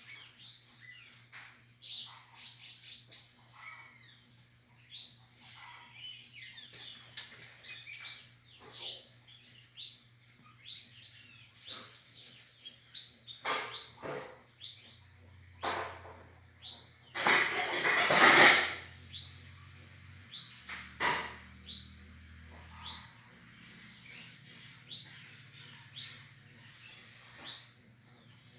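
Several small birds singing and chirping together, with one short rising note repeated about once a second. About two-thirds of the way in there is a loud burst of noise lasting about two seconds.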